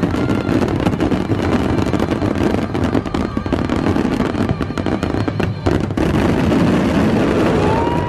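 Fireworks display: a dense, continuous barrage of bangs and crackling from aerial shells bursting.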